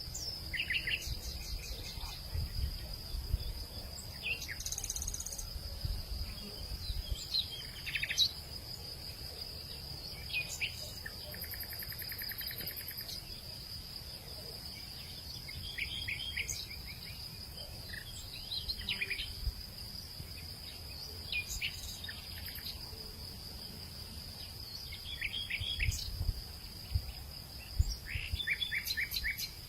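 Outdoor nature ambience: a steady high-pitched insect drone, with bird calls in short runs of quick chirps every few seconds and a low wind rumble underneath.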